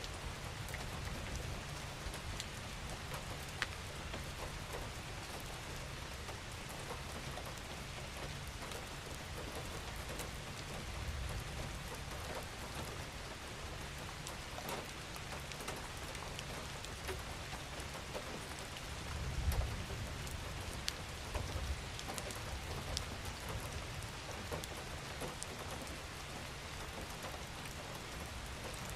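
Steady rain falling, an even hiss dotted with the ticks of individual raindrops hitting a surface. A low rumble underneath swells briefly about two-thirds of the way through.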